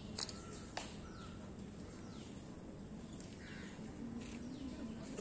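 Outdoor dawn chorus: several birds calling in short falling chirps, repeated every second or so, with two sharp clicks in the first second, over a steady low background noise.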